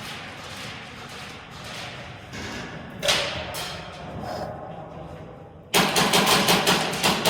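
Airsoft gun firing full-auto: a sudden, rapid, loud run of shots near the end, after lower background noise and a single sharp crack about three seconds in.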